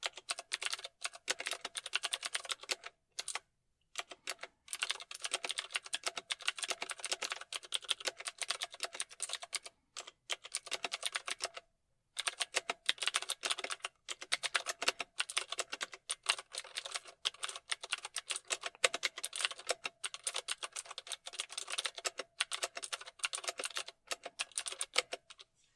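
Rapid typing on a computer keyboard: quick runs of key clicks with short pauses now and then, stopping near the end.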